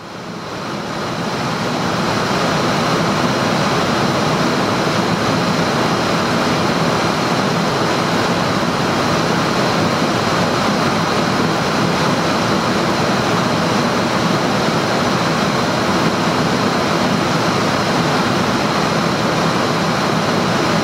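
Steady rushing airflow noise on the flight deck of a Boeing 747-400 in cruise, with a faint hum under it. It fades in over the first couple of seconds, then holds level.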